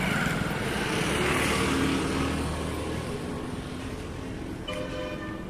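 Swaraj 744 XT tractor's diesel engine running, louder for the first few seconds and then easing down. Near the end, a short horn toot sounds.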